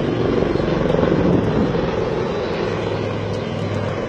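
HAL Dhruv helicopters flying their display, a dense, rapid rotor chop with a steady engine hum underneath, the sound easing slightly toward the end.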